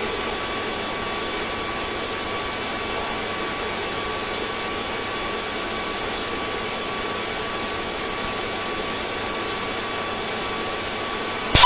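Steady noise of a police helicopter heard through the crew's intercom: an even hiss with a few faint steady tones.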